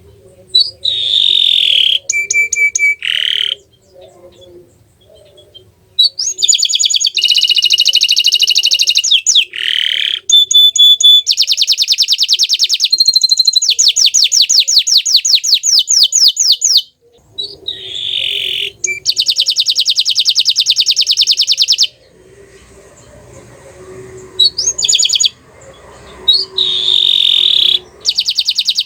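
Green (bottle-green) domestic canary singing loudly: long phrases of high, rapid trills and rolls, with a short pause about four seconds in and another in the second half.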